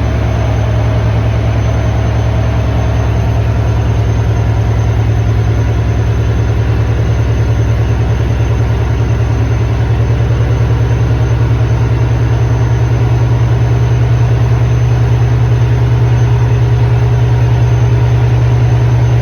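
Large ship's diesel engine running steadily, a deep drone with a fast, even pulsing that grows slowly louder.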